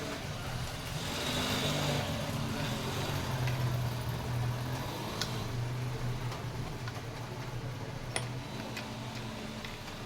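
A steady low mechanical hum, like a motor or engine running, with a few sharp clicks of tools on metal parts about halfway through and near the end.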